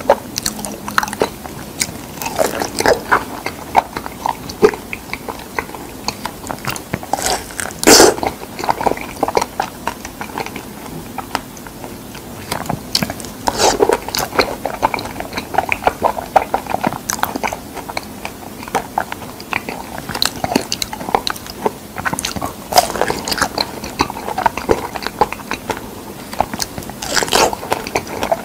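Close-miked chewing and biting of fresh figs: a steady run of small mouth clicks, with louder bites about 8, 14 and 27 seconds in.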